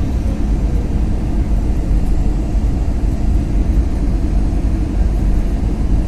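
Steady low rumble of an airliner's cabin during the landing approach: jet engine and airflow noise heard from inside the cabin.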